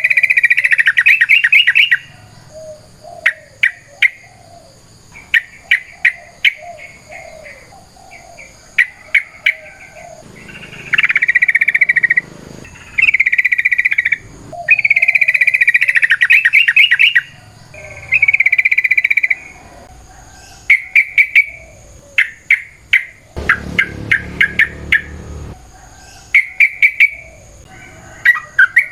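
Yellow-vented bulbul (trucukan) singing: loud, fast, bubbly chattering phrases, some drawn out into rapid trills of a second or two, alternating with runs of short sharp chirps. A low rumble sounds under the song about three quarters of the way in.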